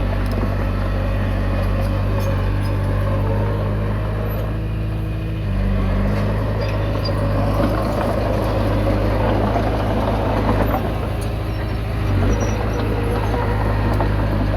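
Komatsu D20P bulldozer's diesel engine running under load while it works, with the engine note dipping and shifting briefly about five seconds in and again near twelve seconds.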